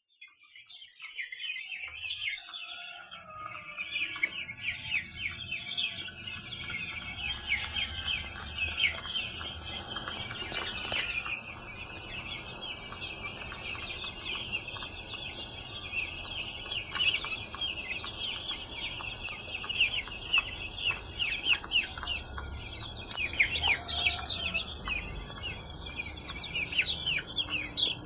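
A large flock of broiler chickens peeping together in a dense, continuous chorus of short high calls, fading in over the first two seconds, over a low steady hum.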